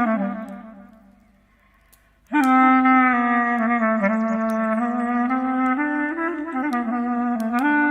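Slow clarinet melody of long held notes: a note fades out over the first two seconds, a short pause follows, then a new phrase begins with a slight scoop up into the note and steps through a few sustained pitches. Faint crackling pops from a campfire sit underneath.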